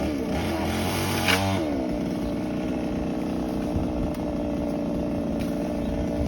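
Small two-stroke chainsaw engine running at a steady idle, revving briefly about a second in.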